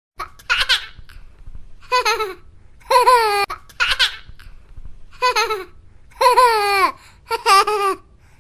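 A baby laughing, in about seven short, high-pitched bursts.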